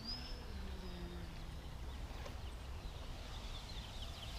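Electric brushless motor and propeller of a small foam 3D RC airplane whining in flight. The pitch rises briefly, then holds and fades away about a second in as the throttle comes down, over a low steady rumble.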